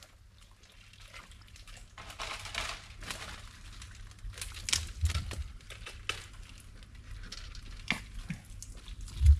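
Hands digging in wet mud and water at a crab burrow: irregular sloshing, squelching and rustling with scattered clicks, and a heavy low thud near the end.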